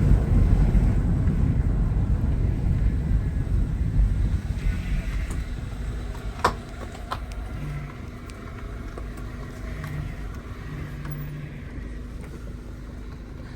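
Car running with a low rumble that dies down over the first several seconds, as if slowing to a stop, then idles quietly; a sharp click about six and a half seconds in.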